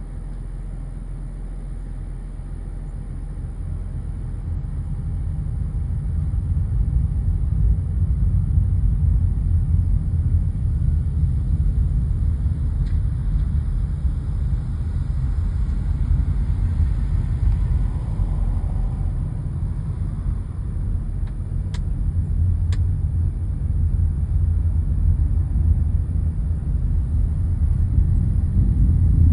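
Low rumble of a SpaceX Falcon 9 rocket's engines heard from far away during launch, building over the first several seconds and then holding steady. Two faint clicks come through a little past the middle.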